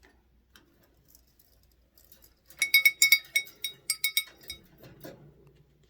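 Small metal bell on a parrot toy being shaken: a quick run of about a dozen bright jingling rings, with a few fainter ones near the end.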